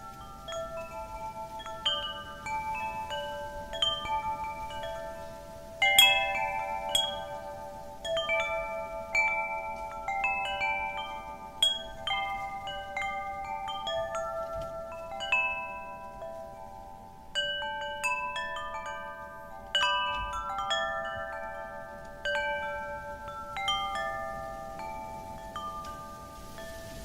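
Wind chimes set swinging by the wind, several tuned notes struck irregularly, a strike or small cluster about every second, each note ringing on and slowly fading.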